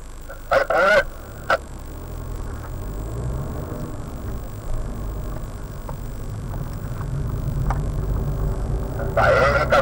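Car engine heard from inside the cabin as the car pulls away and accelerates. Its low rumble grows steadily louder over several seconds.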